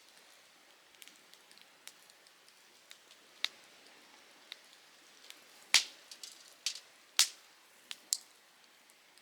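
Softwood firewood burning in a campfire, crackling with irregular sharp pops that grow louder and more frequent in the second half, over a faint steady hiss.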